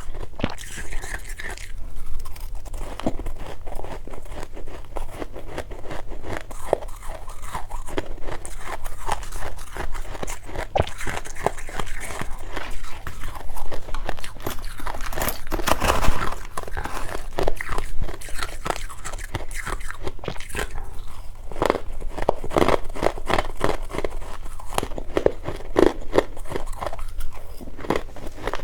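Close-miked biting and chewing of powdery freezer frost (snow ice), a dense run of irregular crisp crunches, loudest about halfway through.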